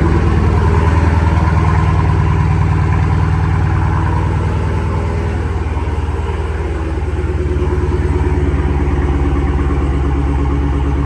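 Straight-piped Dodge Challenger SRT Hellcat's supercharged V8 idling steadily shortly after a cold start, after sitting for a while. The exhaust note eases slightly about six seconds in, then settles back.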